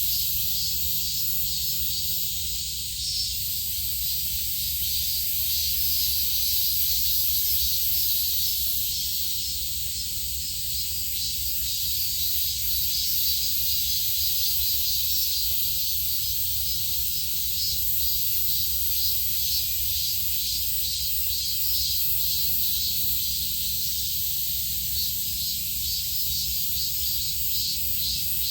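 Steady insect chorus, a dense high-pitched chirring with fine rapid pulsing, over a faint low rumble.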